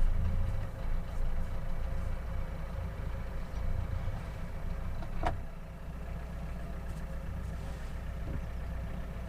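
A 40-foot sailboat's engine running steadily in forward gear while manoeuvring into a berth, a low rumble that eases slightly a little past halfway. There is a single sharp click about five seconds in.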